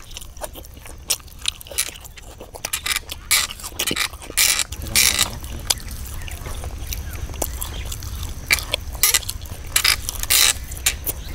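Close-up chewing and mouth smacking from a man eating tomato and cooked beef-head meat by hand, with many short wet clicks, over a steady low rumble.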